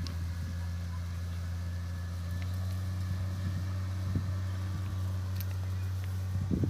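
Large diesel engine running steadily with a low, even hum, with a few faint clicks over it.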